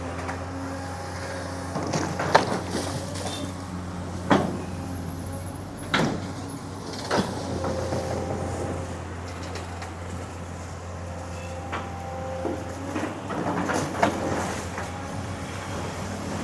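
Long-arm hydraulic excavator's diesel engine running steadily while it works, with several sharp knocks and clanks a second or several seconds apart.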